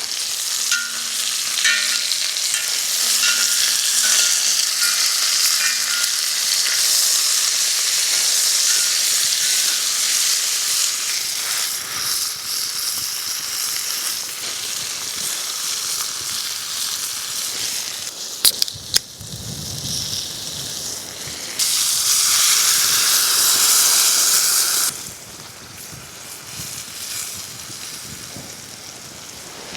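Food sizzling in a hot pan over a campfire, with a couple of sharp clicks past the middle. A louder burst of sizzling follows for about three seconds, then it settles down quieter.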